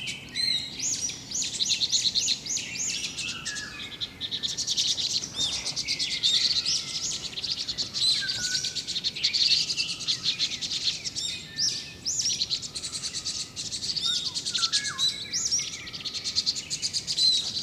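A group of small songbirds chirping, many short high calls overlapping almost without pause.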